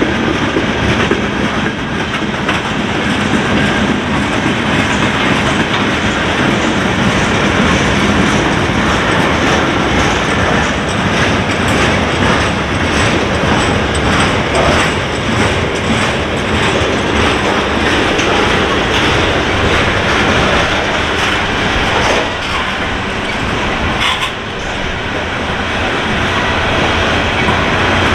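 Freight cars rolling past on steel wheels: a steady rail rumble with a stream of clickety-clack clicks as the wheels pass over the rail joints.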